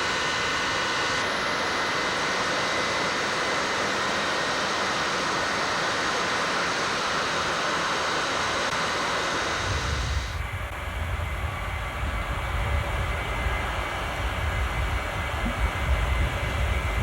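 Jet airliner engines running with a steady whining hiss and several high steady tones. About ten seconds in the sound changes abruptly to a deep rumble that grows louder near the end.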